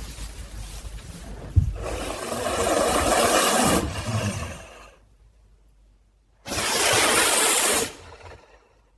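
Sound-designed angry caracal hissing in raspy bursts. A sharp knock comes about a second and a half in, then a long hiss that fades out. After a pause, a second loud hiss lasts about a second and a half.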